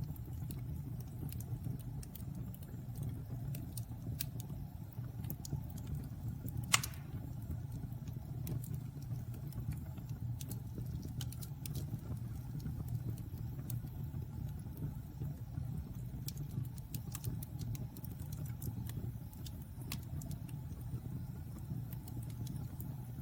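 Wood fire burning in a fireplace: a steady low roar with scattered small crackles, and one sharp loud pop about seven seconds in.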